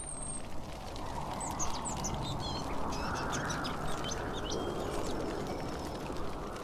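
Small birds chirping in short, high calls over a steady background rush.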